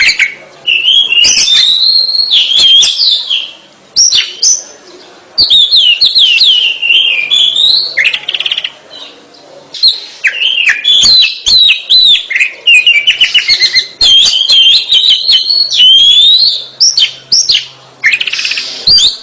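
Oriental magpie-robin (kacer) in full song: rapid, loud, varied phrases of sharp whistled and slurred notes mixed with buzzy rattles. The song breaks off briefly about four seconds in and again about eight seconds in.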